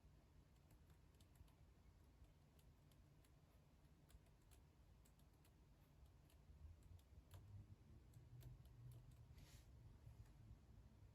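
Faint, irregular clicks of typing on a computer keyboard, coming more often in the second half, over a low steady hum. A brief swish comes about nine and a half seconds in.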